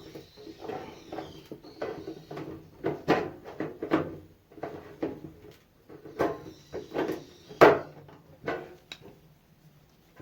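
Irregular knocks and clanks of thin sheet metal being handled and worked, a dozen or so uneven strikes with short gaps between them.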